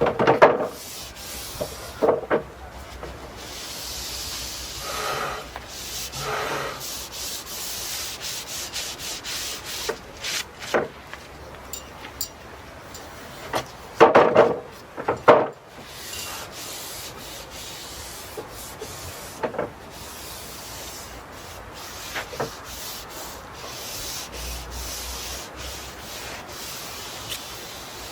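A brush rubbing oil into European larch planks in repeated scratchy strokes. A few sharp wooden knocks and clatters break in, loudest right at the start and in a cluster about halfway.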